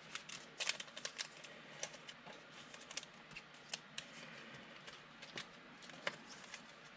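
Football trading cards being handled and flipped through by hand: light, irregular clicks and rustles of card stock.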